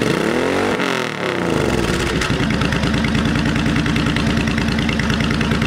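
2006 Suzuki C90 Boulevard's V-twin engine through Vance & Hines Longshots exhaust pipes, blipped once: the pitch rises and falls back within the first two seconds. It then settles into a steady, lumpy idle.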